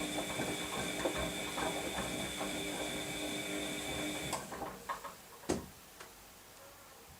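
Washing machine in its wash cycle: the drum motor runs with a steady whine and irregular clicking and clattering, then cuts off about four seconds in, followed by a couple of knocks as the drum comes to rest.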